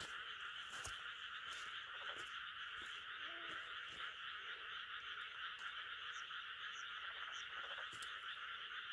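A dense, steady chorus of frogs calling, with a few faint ticks over it.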